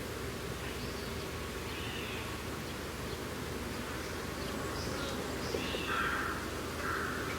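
Outdoor ambience: scattered short bird calls over a steady low background hum.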